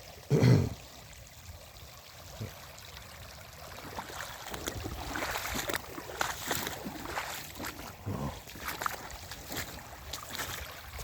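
Floodwater running and splashing from an overflowing culvert, getting busier and louder with many small splashes about four seconds in. A short low thump comes about half a second in.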